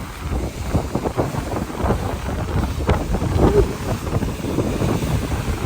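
Strong wind buffeting the microphone in uneven gusts, with choppy water splashing underneath.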